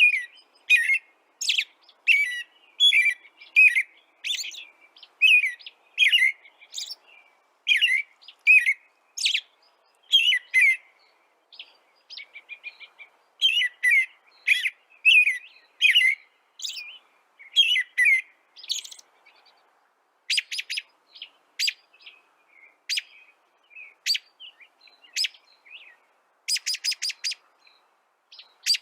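Songbirds chirping: a long series of short, clear chirps about twice a second, then from about two-thirds of the way through, quick dry rattling trills.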